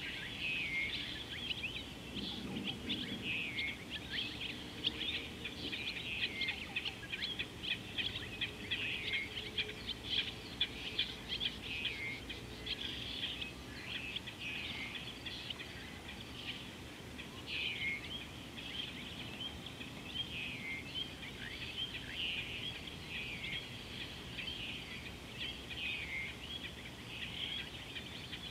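Birds calling in a continuous chorus of chirps, with one call that slides downward repeating every couple of seconds.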